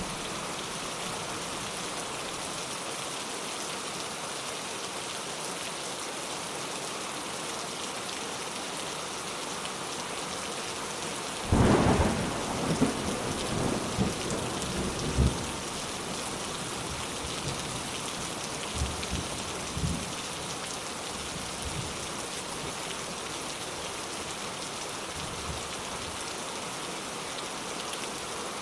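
Steady rain falling throughout. A sudden thunderclap breaks in about eleven seconds in and rumbles on for about four seconds, with fainter rolls of thunder around twenty seconds.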